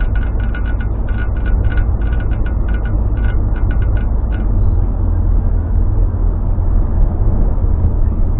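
Car driving, heard from inside the cabin: a steady low road-and-engine rumble. A quick run of light ticks plays over it in the first half and stops about four and a half seconds in.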